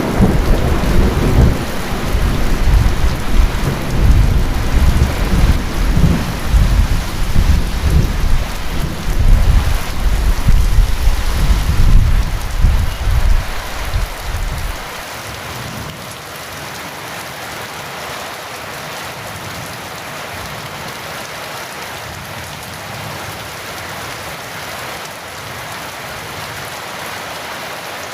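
Heavy rain falling steadily, with a long roll of thunder rumbling through the first half that stops abruptly about halfway, leaving only the rain.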